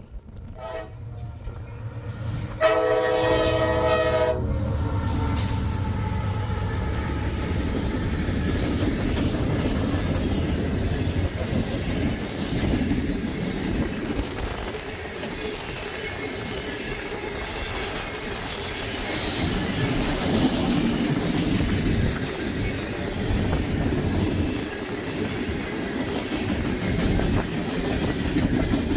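Freight locomotive horn blows one short chord a few seconds in over a heavy diesel rumble, then a coke train's cars roll past steadily, wheels clacking over the rail joints.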